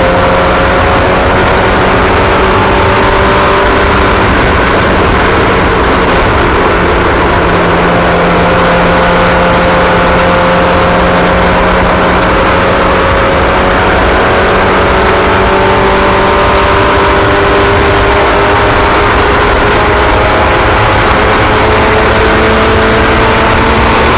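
Several small racing engines running together at speed, their pitches drifting slowly up and down as the cars circle the track.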